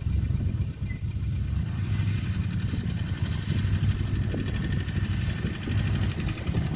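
Wind buffeting the microphone in a blizzard: a heavy, uneven low rumble with a fainter hiss above it.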